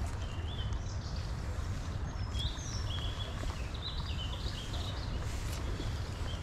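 Small birds singing in short, high chirping phrases, over a steady low rumble.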